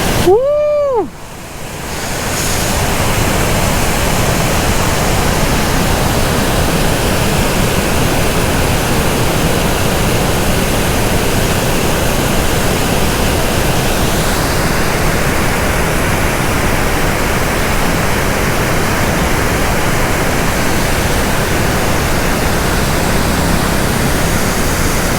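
Loud, steady rush of water pouring through the Kallanai dam's opened sluices on the Cauvery. About a second in, a short tone rises and falls before the water sound takes over.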